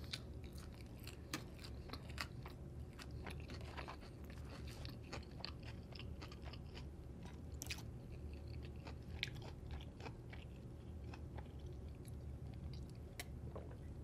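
Close-miked chewing of pizza: a person's mouth working through a bite, with many small crunches and clicks.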